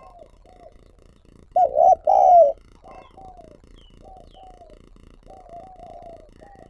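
Spotted doves cooing: a run of soft, short coo notes, a few per second, with two loud coos close together about two seconds in. Faint high chirps sound between them.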